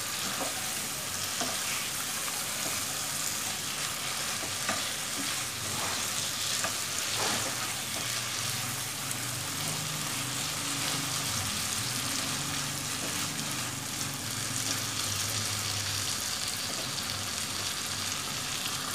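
Giant freshwater prawns sizzling steadily in oily spice paste in a non-stick frying pan as they are stirred and turned with a silicone spatula, with a few short scrapes of the spatula on the pan.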